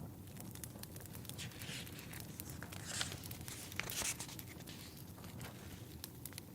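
Book pages being turned: a few dry papery swishes in the middle, over a crackling fireplace with a low steady rumble.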